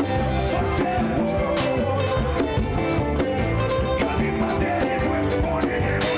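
Church band playing upbeat gospel music with a steady drum beat, bass and sustained keyboard or guitar notes.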